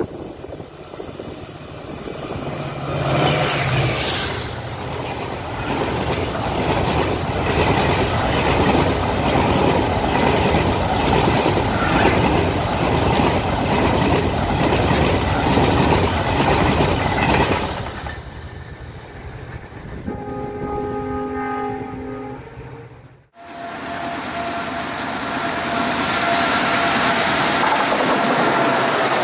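An express passenger train passing at speed on welded track, with a loud steady rush and wheel clatter, fading about 18 s in. A train horn then sounds a chord of several steady tones for a couple of seconds. After a sudden break, an Indian Railways WDM3D diesel-electric locomotive approaches and runs by, its engine and wheels loud and steady.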